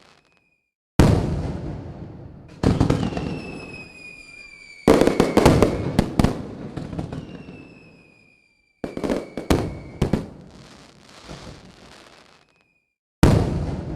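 Fireworks display: a run of loud bangs a second or two apart, each dying away, with a quick cluster of sharp cracks about five seconds in. Between them, thin whistling tones sink slowly in pitch.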